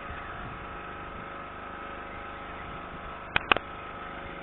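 Boat engine idling steadily, with two sharp clicks close together about three and a half seconds in.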